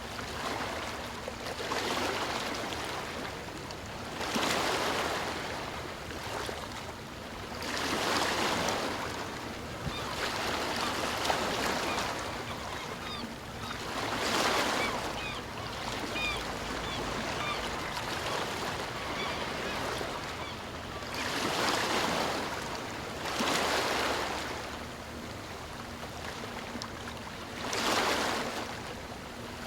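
Sea waves washing onto the shore, the surf swelling and falling away every two to four seconds. A few faint high chirps sound about halfway through.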